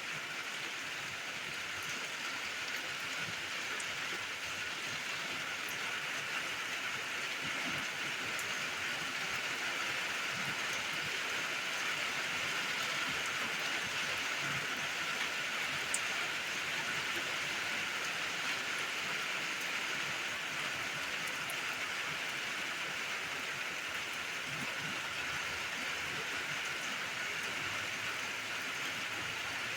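Steady rain falling, with a few sharper drip ticks, one clearer about halfway through.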